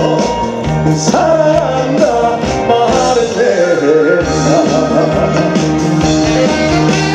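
Live trot song through a concert sound system: a band with a steady drum beat and bass under a sung melody line.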